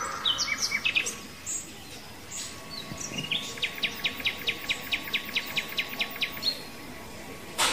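Birds chirping: a few scattered high calls, then a quick, even run of short chirps, about seven a second, lasting some three seconds.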